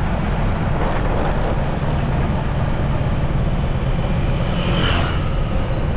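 Motorcycle riding in traffic: steady engine rumble and road noise, with a short higher-pitched sound from the traffic about five seconds in.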